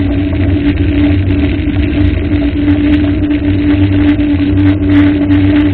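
An engine running steadily with an even-pitched hum and low rumble.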